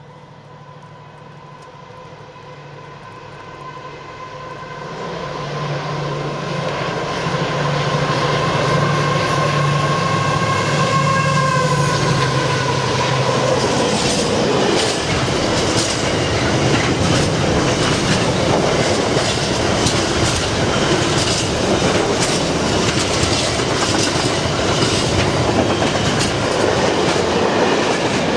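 Two Class 70 diesel locomotives approaching and passing at speed, a steady whine and low engine drone growing louder over the first several seconds. Then the intermodal container wagons roll by with a loud rush of wheel noise and rapid clicks of the wheels over rail joints.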